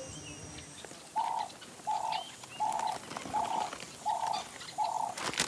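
A bird calling one short note over and over at a steady pace, about once every 0.7 s, starting about a second in. Faint chirps of other birds sound behind it.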